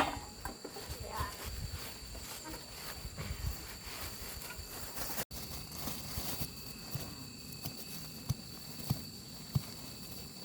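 Insects chirring steadily at a high pitch. Over them come soft rustling and handling knocks from bagging produce, with a few sharper taps near the end.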